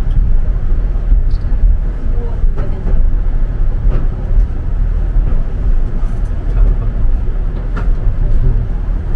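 Low, steady rumbling running noise inside a slow-moving tourist monorail car, swelling and dipping in loudness.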